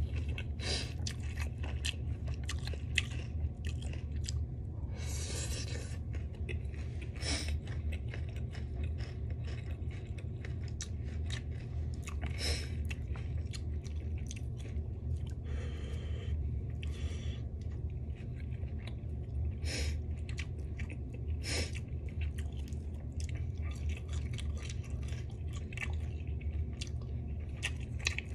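Close-miked mukbang-style eating: chewing, biting and crunching of noodles and a crisp fried piece, full of wet mouth clicks and crackles, with a few longer hissing sucks, over a steady low hum.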